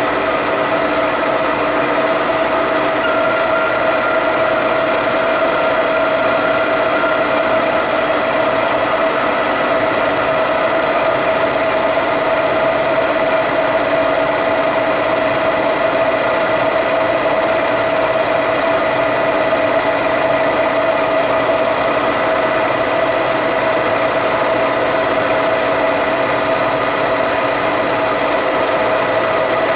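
Metal lathe running steadily through a cutting pass, with a constant mid-pitched whine over the machine's running noise.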